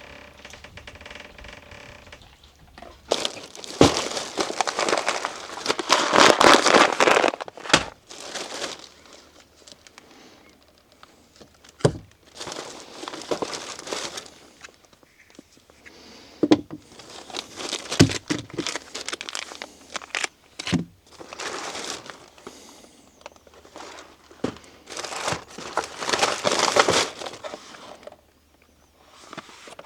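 Packaging crinkling and rustling as it is handled, in several bursts of a second or more, with a few sharp knocks in between.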